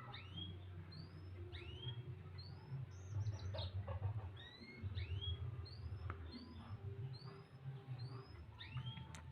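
Domestic canary chirping: short, high, upward-sweeping notes repeated about twice a second, over a steady low hum.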